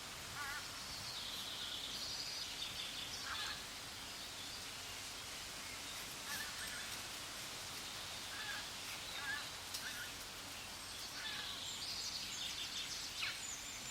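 Faint bird chirps over steady background noise, with a cluster of high chirping about a second in and again near the end.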